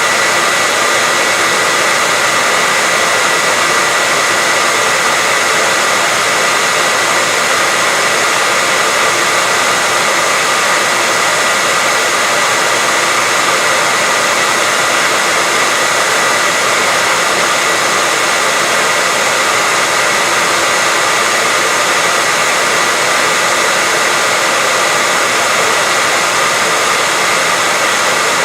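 Continuous white noise: a steady, unchanging hiss weighted toward the high end, with a faint steady whistle in it.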